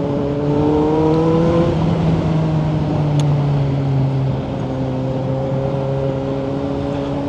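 2018 Kawasaki Z900's inline-four engine through a Yoshimura exhaust, under way on the road. Its note rises gently for the first two seconds as it pulls, then holds steady, easing slightly about four and a half seconds in.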